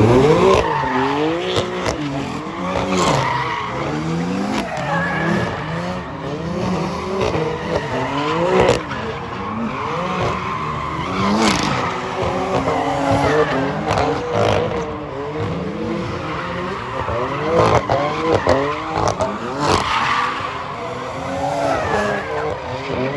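A car engine revving up and down over and over, its pitch climbing and dropping every second or so, with tires squealing and skidding.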